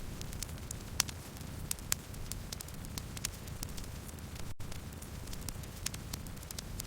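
Campfire burning: a steady low rumble with scattered sharp crackles and pops of burning wood, a few louder pops standing out. A split-second dropout about two-thirds of the way through.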